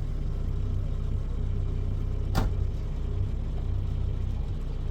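A motor vehicle's engine running steadily with a low hum, and one sharp knock about halfway through.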